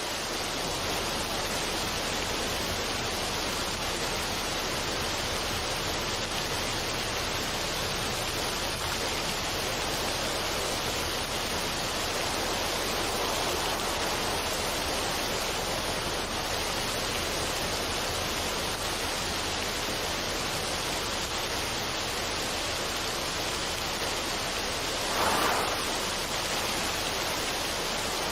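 Steady, even rushing noise like falling water or rain, with no melody or rhythm, swelling briefly louder near the end.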